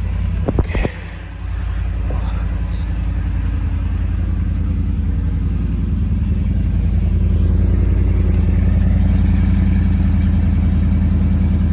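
Pickup truck engine idling steadily while it warms up after a cold start. There are a couple of sharp knocks about half a second in, and the idle grows slightly louder later on.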